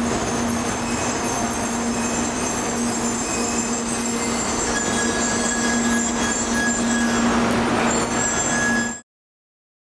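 700-series Shinkansen train rolling slowly into the station as it brakes to a stop, with a steady hum under the running noise. A thin high squeal joins about halfway through. The sound cuts off suddenly near the end.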